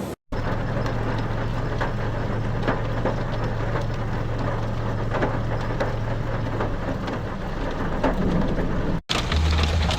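Heavy rain, many drops striking a hard surface, over a steady low hum that stops about seven seconds in. The sound cuts out briefly just after the start and again about nine seconds in.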